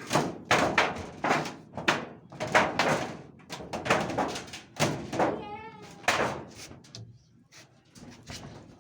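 A quick run of sharp knocks and thuds, two or three a second, that thins out near the end. A brief wavering high-pitched cry, like a cat's meow, comes about five seconds in.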